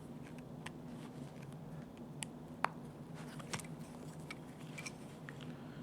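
Small sharp plastic clicks and creaks, scattered and irregular, as a thin screwdriver pries at a stuck key fob remote case; the sharpest click comes a little before the middle. A steady low hum runs underneath.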